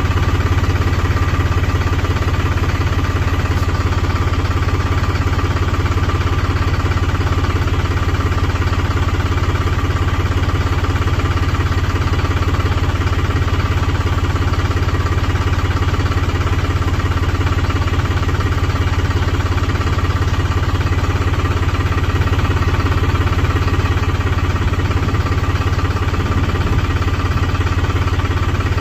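An engine running steadily at a constant speed, with a deep, even hum that holds throughout.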